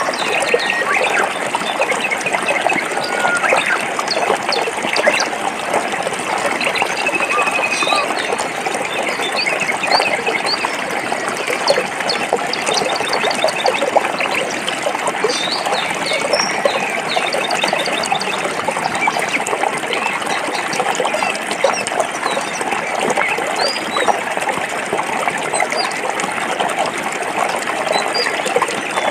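Stream water flowing and splashing over rocks, a steady bubbling rush, with small bird chirps scattered over it.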